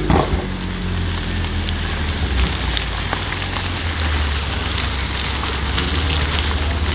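BMW M4 F82's twin-turbo inline-six with an aftermarket Milltek exhaust, idling low and steady after a rev has dropped away, with a brief crackle right at the start. A steady hiss runs under it.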